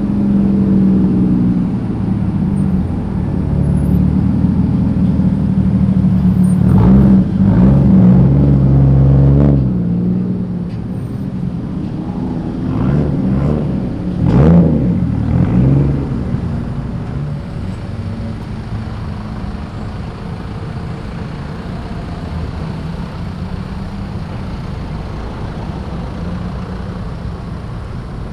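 Cars pulling away and driving past one after another, engines revving with rising pitch. The loudest passes come about a third of the way in and again about halfway, then a lower, steady engine rumble follows.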